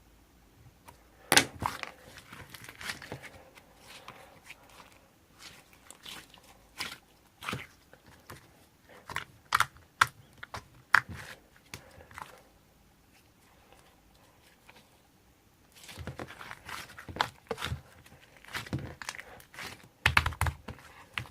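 Hands mixing and kneading clay, giving irregular sharp crackles and clicks. The crackling pauses for a few seconds past the middle, then comes back denser near the end.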